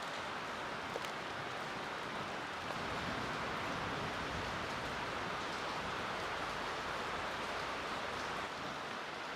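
Steady hiss of falling rain, with a few faint ticks.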